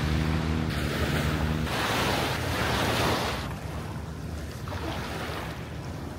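Sea waves washing in with wind buffeting the microphone; a surge of surf swells about two seconds in and then settles. A steady engine hum runs under it for the first second and a half.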